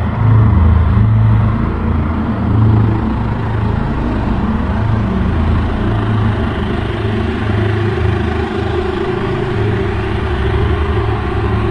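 A loud, continuous low rumbling drone whose deepest part swells and fades every second or so, under a steadier hum. It is one of the unexplained 'strange sounds' from the sky; its source is not known.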